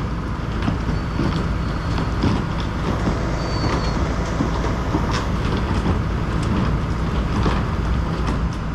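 Heavy diesel truck engines running steadily under load as the stuck semi is pulled through the mud, with scattered clanks and knocks throughout.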